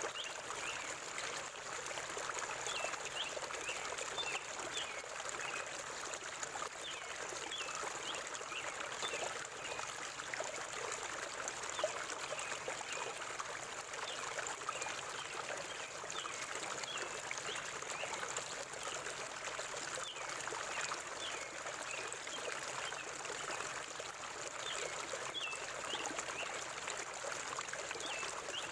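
Forest stream or small river flowing steadily, a constant rushing and gurgling of water, with small birds giving short high chirps scattered throughout.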